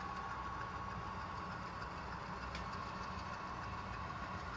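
HO scale model freight train rolling along the track, its cars' wheels making a steady rumble with a thin steady whine above it. One faint click comes about two and a half seconds in.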